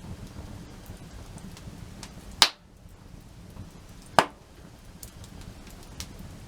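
Wood campfire burning, crackling with scattered small ticks, and two loud sharp pops about two and a half and four seconds in.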